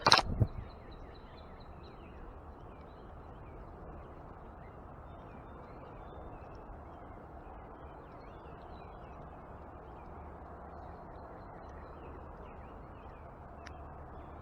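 A sudden loud thump in the first half-second, then faint birds chirping over a steady outdoor background.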